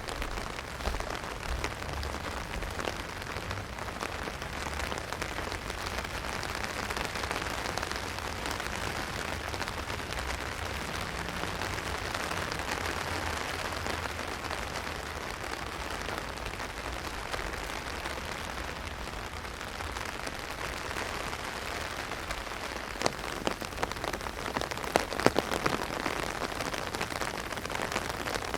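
Heavy rain falling on an umbrella: a steady patter of drops, with louder single drops striking near the end.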